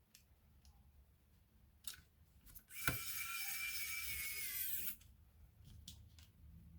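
A blast of compressed air hissing for about two seconds and cutting off suddenly, as when blowing dust out of a laptop's cooling fan and heatsink. It starts with a click, and light clicks of handled parts come before and after.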